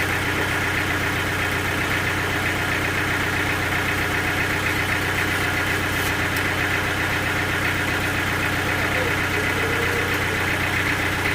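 Sawmill's engine running steadily at one even speed, a constant hum with no change in load.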